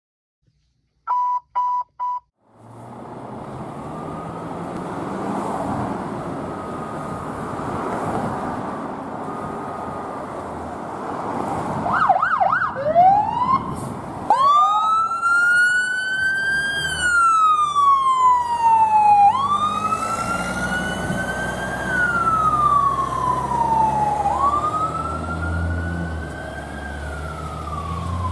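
Three short beeps, then steady traffic noise with a faint distant siren. About twelve seconds in, a fire apparatus siren gives a brief fast yelp and then wails loudly, rising and falling about every five seconds, with a low engine rumble growing under it near the end.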